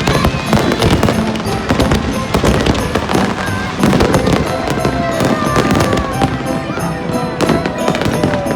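Fireworks display: many sharp bangs and crackles in quick succession, with music playing underneath.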